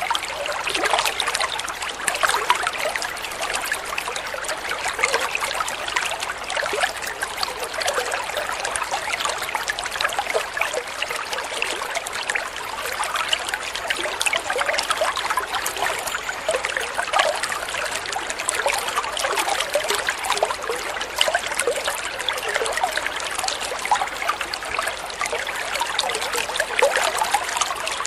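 Flowing water trickling and babbling steadily, with many small splashes and no letup.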